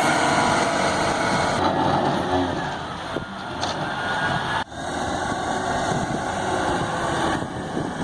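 Diesel engines of silage-harvest machinery running, a dense steady mechanical drone with hiss. The sound changes abruptly about one and a half seconds in, and again near the end, and cuts out for an instant around halfway.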